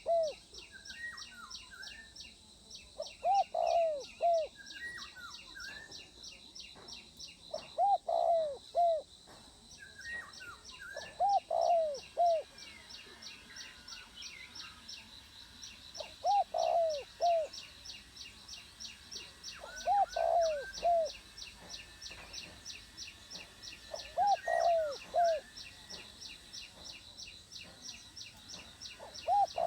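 Spotted dove cooing: short phrases of three or four low coos, repeated about every four seconds. A steady, fast, high-pitched pulsing chirp runs behind it, with a few higher bird notes.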